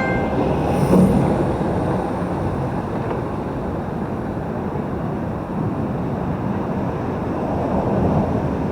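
Busy road traffic passing a moving bicycle, with wind on the microphone: a steady rushing noise.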